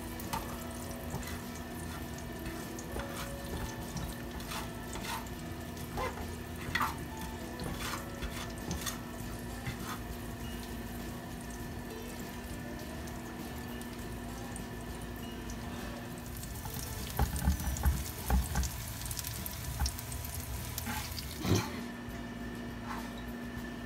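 Garlic, onion and chili flakes sizzling in oil in a frying pan on a hot stove, with light clicks and scrapes of a spatula stirring them, over a steady hum. A few louder knocks come near the end.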